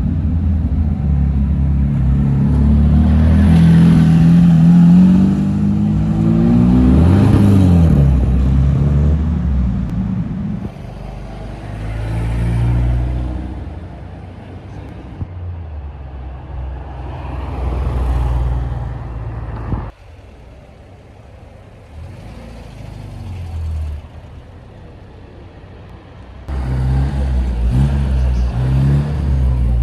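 Classic car engines running and being revved, with the pitch climbing and dropping as a car accelerates away about a quarter of the way in. The sound changes abruptly twice, between separate cars or moments.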